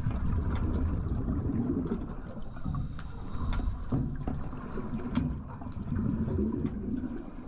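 Water noise picked up by an underwater camera: a steady low rumble and churn of moving water with scattered sharp clicks.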